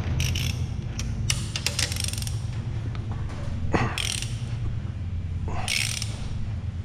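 A hand ratchet clicking in short strokes as it is worked on tight cylinder head bolts of a Ford 5.0 Coyote V8, over a steady low hum.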